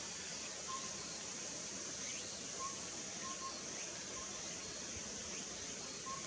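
Female collared owlet giving its hollow whistled toots: short notes in a phrase of single, single, a quick pair, single, then another begins near the end. A steady high hiss of insects runs underneath.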